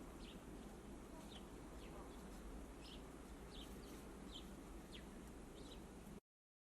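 European greenfinches giving short, high chirping calls, about ten scattered over six seconds, over a faint steady low rumble. The sound cuts off abruptly near the end.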